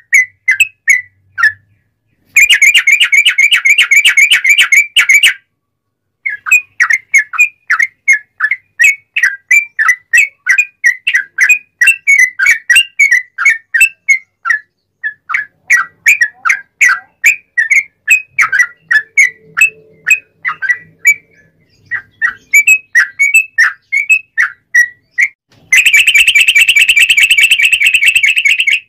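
Yellow-vented bulbul (trucuk) singing loudly: quick runs of short whistled notes, broken by two long, rapid trills, one a couple of seconds in and one near the end.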